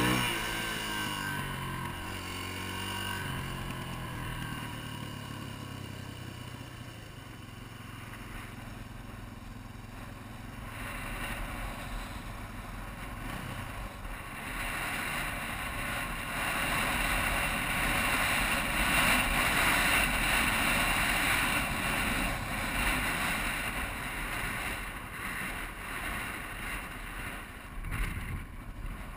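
Yamaha TTR250 single-cylinder four-stroke engine dropping in revs over the first few seconds, then running faintly under heavy wind rush on the motorbike-mounted camera's microphone. The rush grows louder about ten seconds in and is loudest in the second half.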